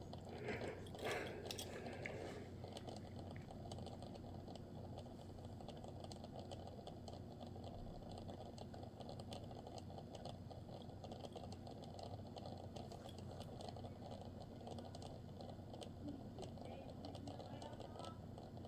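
Faint handling noises from a diecast model truck turned in the hands: a few louder rustles and taps in the first two seconds, then scattered small clicks over a low steady room hum.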